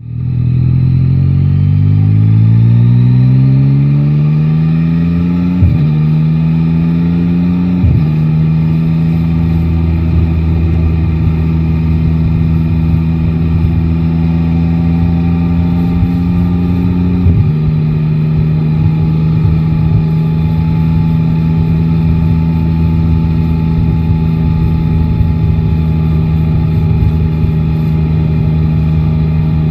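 Yamaha Tracer 9 GT motorcycle's inline-three engine pulling away with a rising note. The pitch drops sharply with upshifts at about 5.5 s, 8 s and 17 s, and in between and afterwards the bike cruises at a steady engine note.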